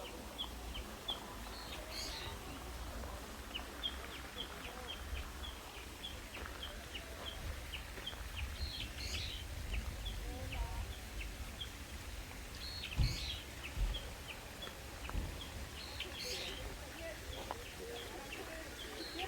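Birds calling: a steady run of short high chirps, two or three a second, with a louder, higher call breaking in every few seconds over a low rumble.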